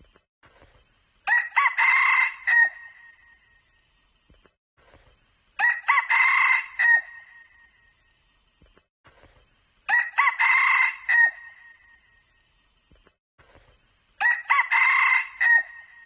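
Red junglefowl crowing: four short crows at even spacing, one about every four seconds, each ending in a thin held note.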